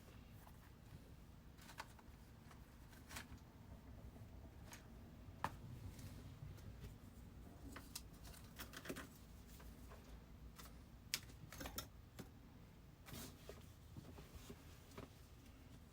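Near silence: low room hum with a dozen or so faint scattered clicks and light rustles.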